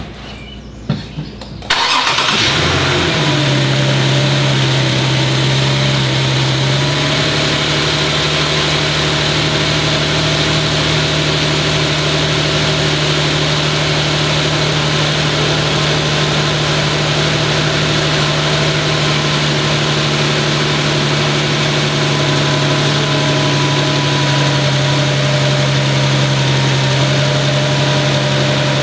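2015 Infiniti Q70's 3.7-litre V6 cold-starting after sitting overnight: a few small clicks, then the engine catches suddenly about two seconds in and settles into a steady idle whose pitch steps up slightly about seven seconds in. It idles with the ticking and tapping that the owner finds loud but takes to be normal and inherent in this engine.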